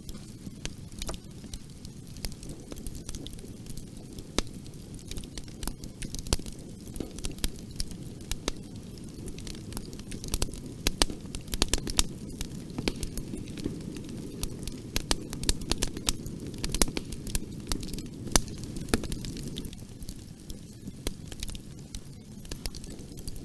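Wood fire crackling in a fireplace: a steady low rumble of the flames with irregular sharp pops and snaps, thickest around the middle.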